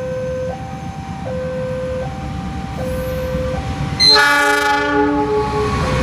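Level crossing warning alarm alternating between two tones, over the low rumble of an approaching train. About four seconds in, the diesel train's horn sounds loudly for about two seconds, drowning out the alarm.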